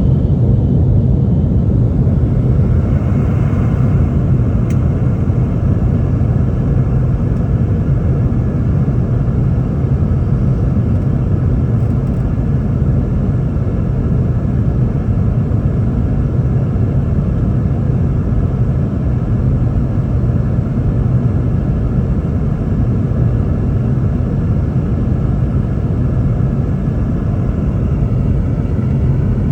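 Steady low rumble of cabin noise inside a Boeing 717-200 in flight, the sound of its rear-mounted Rolls-Royce BR715 turbofans and air rushing past the fuselage.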